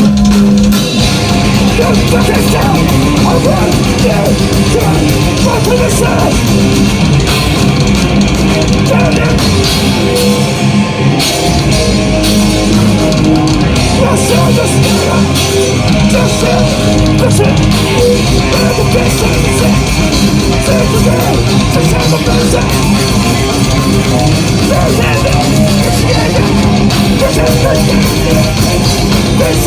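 Hardcore band playing live at full volume, with distorted electric guitar, bass and drums. The band comes in abruptly at the start and keeps going at a steady, dense loudness.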